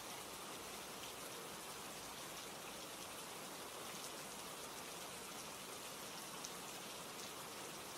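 Steady rain falling, an even hiss of many small drops, with one faint tick about six and a half seconds in.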